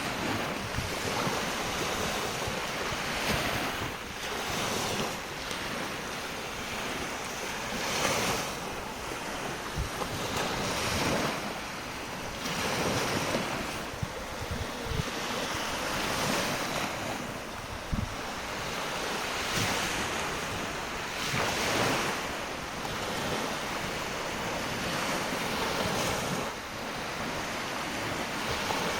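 Small waves of a calm sea washing onto a sandy beach, swelling and breaking every few seconds. Wind buffets the microphone now and then.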